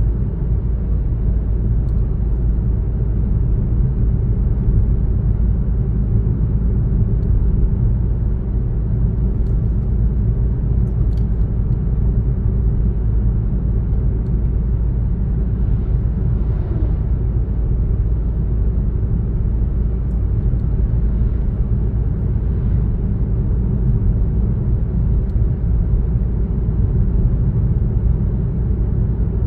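A car driving at a steady pace: a continuous low road-and-engine rumble with no changes in speed.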